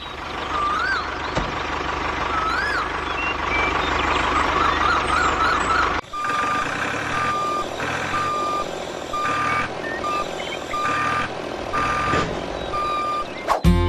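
Truck reversing alarm beeping about once a second, starting about six seconds in, over steady vehicle running noise. Before the beeping there are a few short whistling chirps.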